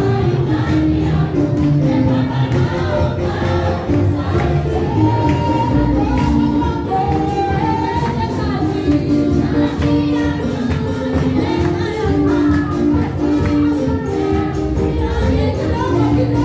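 Music with a group of voices singing held notes over a full, steady accompaniment, in the style of a gospel song.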